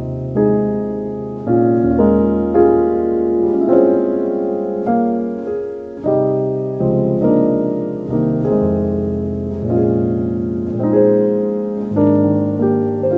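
Slow solo piano music: notes and chords struck about once a second and left to fade.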